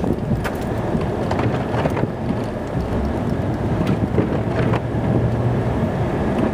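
Snowplow truck running while plowing: a steady engine and road rumble with a scattered handful of short knocks and rattles.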